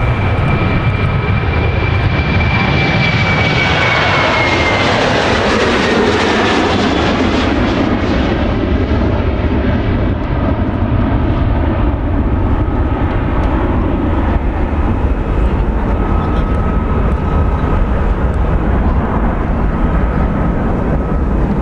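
Boeing 737-800 jet engines (CFM56-7B turbofans) passing by. The high fan whine falls in pitch about five seconds in as the rushing jet noise peaks, then the noise recedes into a steady low rumble.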